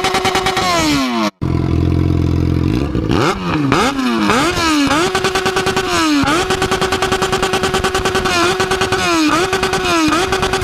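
Sport motorcycle engine revving hard, held at a high steady pitch with repeated brief drops and climbs as the throttle is eased and reopened. About a second in, the sound cuts off for an instant before a lower steady note, then the revving resumes.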